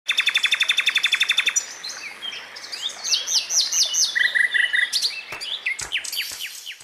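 Songbirds calling: a fast trill of about fifteen repeated notes a second for the first second and a half, then varied chirps and sharp downslurred whistles, with four short even notes about four seconds in.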